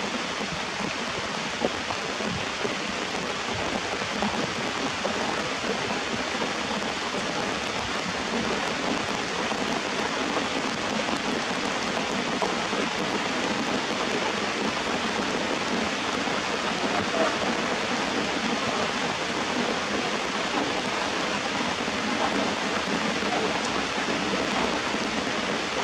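Steady rain falling on leafy plants and wet rocks: an even, unbroken hiss.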